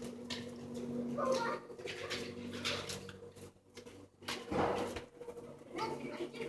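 A puppy making about three short sounds over a steady low hum.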